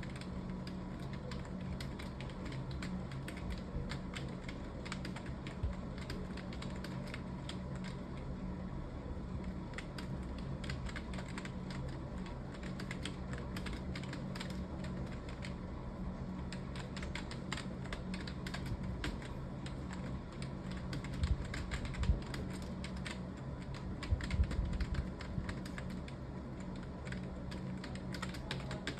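Computer keyboard typed on continuously at speed, a dense run of key clicks over a steady low hum, with a few heavier low knocks about three-quarters of the way through.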